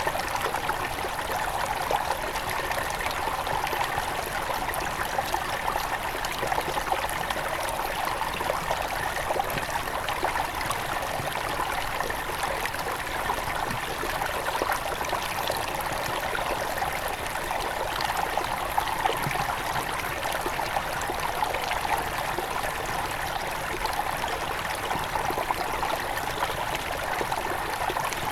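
Shallow forest river at its headwaters flowing and trickling steadily over stones, an even babbling rush with no pauses.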